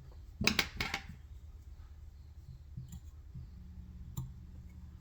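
Small clicks and taps of fly-tying tools and thread handling at the vise: two sharp clicks close together about half a second in, then a couple of fainter ticks later.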